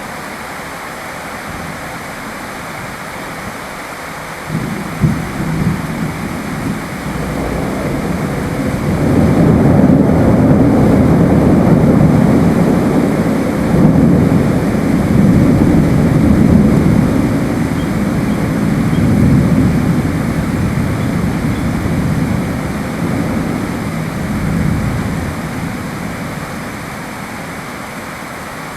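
Steady rain with a long roll of thunder: a few sharp cracks about five seconds in, then a deep rumble that builds, rolls on for over fifteen seconds and fades away.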